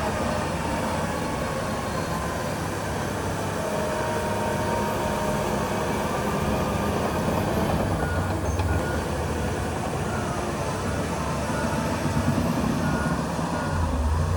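Heavy diesel earthmoving machinery, dump trucks and a bulldozer, running steadily with a low rumble, with a short repeating beep, typical of a reversing alarm, in the last few seconds.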